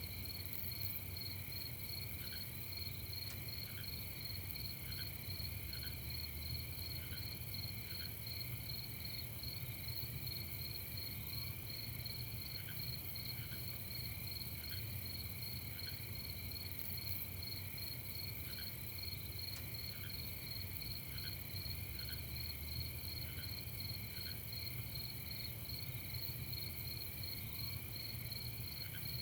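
A night chorus of crickets chirping in a continuous high trill, with soft short calls repeating about once a second beneath it and a steady low hum.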